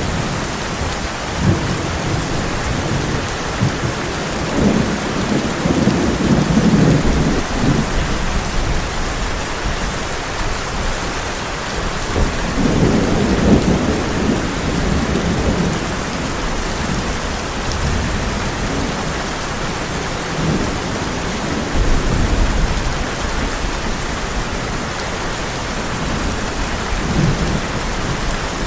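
Heavy rain falling steadily on a tin roof, with low rolling thunder rumbling through it, loudest about five seconds in and again about twelve seconds in, with fainter rumbles later.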